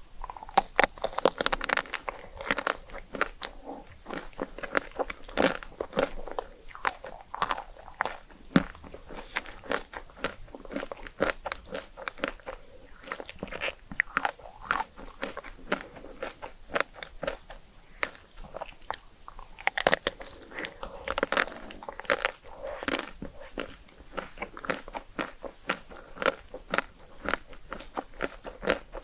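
A person biting and chewing crunchy food, many sharp crunches throughout, with denser flurries about a second in and again about two-thirds of the way through.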